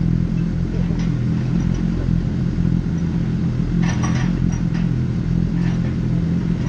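Motorcycle engine running at a steady speed, its note holding an even pitch, with a brief clatter about four seconds in.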